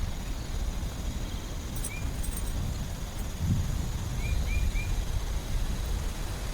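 Steady heavy rain in a forest, with a low rumble that swells about halfway through. A bird gives a short chirp about two seconds in and three quick chirps a couple of seconds later.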